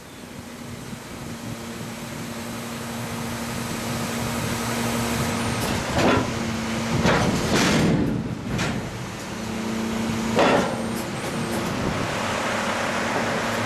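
Truck running with a steady hum, broken by several short, loud bursts of noise between about six and eleven seconds in.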